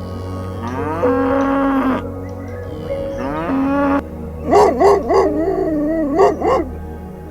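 Cattle mooing: three long, held calls with a rising start. In the second half comes a wavering call whose pitch rocks quickly up and down.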